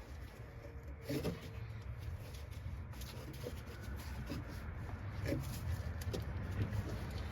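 Light clicks and taps of parts being handled, over a steady low hum.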